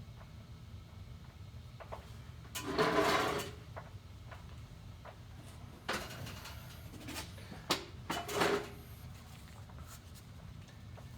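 Steady low hum of running boiler-room equipment, with a few short knocks and scrapes, the loudest about three seconds in.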